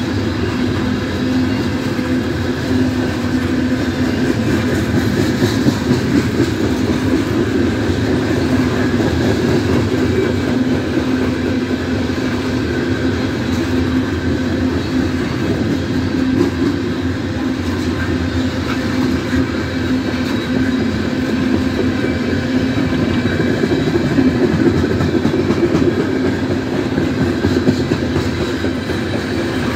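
Coal train's hopper cars rolling past steadily, a continuous rumble of steel wheels on rail with a steady low drone and no break.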